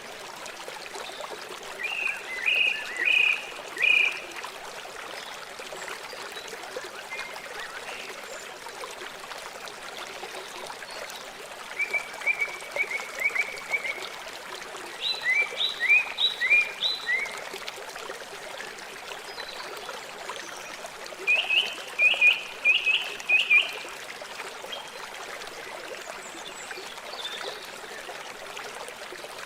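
River water flowing steadily, with a bird calling over it in four short bursts of quick repeated notes, which are the loudest sounds.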